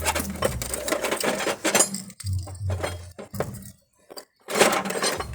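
Irregular clinking and knocking of hard objects, like hand tools and fittings being handled, with a short lull a little before the end.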